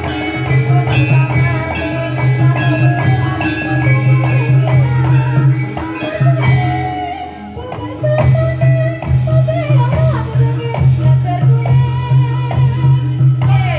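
Live Javanese reog / jaranan ensemble music: metallic gamelan-style percussion over a steady, heavy drum beat, with a wavering melody line on top. The drum beat drops out briefly about seven seconds in, then picks up again.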